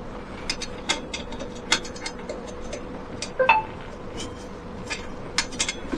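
Scattered light clicks and taps of small hard objects being handled, irregular and a dozen or more in all, over a faint steady hum.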